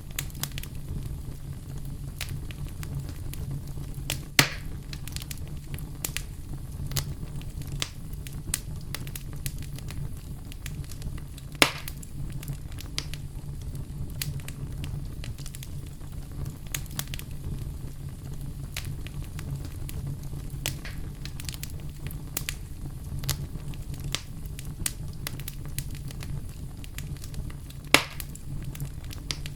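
Campfire crackling: a steady stream of small snaps and ticks over a low, even rumble, with three louder pops about 4, 12 and 28 seconds in.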